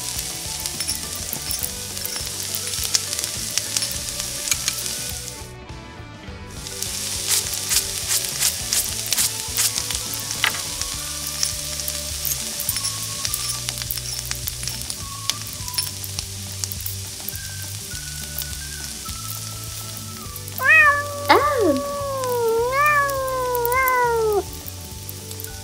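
Food sizzling as it fries in a miniature pan, with a short break about six seconds in. Near the end a pet gives a few high, wavering cries that fall in pitch.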